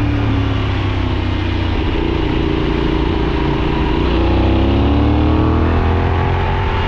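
Benelli 752S parallel-twin motorcycle engine heard on board at road speed over a steady rush of noise, rising in pitch as it accelerates from about four seconds in.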